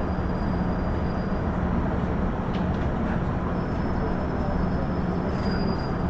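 KiHa 110-series diesel railcar under way: a steady rumble of the diesel engine and wheels on the rails. A faint, thin high tone comes in about halfway through.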